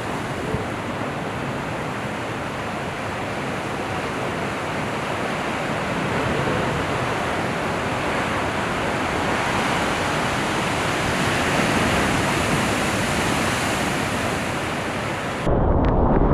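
Steady rush of ocean surf and wind on the surfer's camera microphone, swelling a little toward the middle. About a second before the end the sound turns suddenly muffled, with the highs gone and a louder low rumble.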